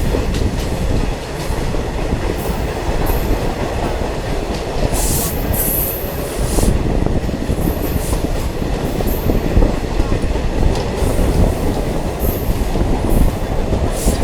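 Diesel multiple unit train running on the track: a steady rumble of wheels on rails, with brief high wheel squeals several times.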